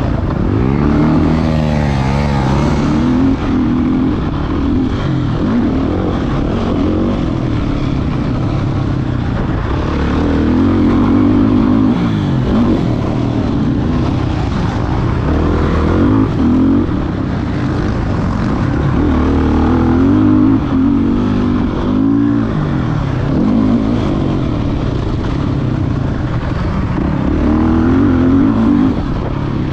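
Motocross dirt bike engine running hard, its pitch rising and falling over and over as the throttle is opened and chopped through the turns.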